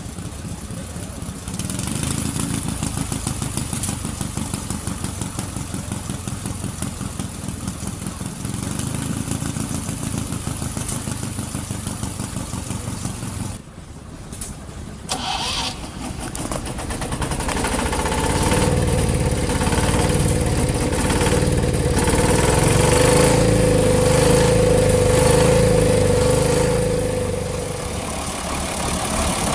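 Vintage engines running with a steady, rhythmic beat. About halfway through the sound breaks off suddenly, and a second, louder engine sound builds, with a steady tone running over it for several seconds near the end.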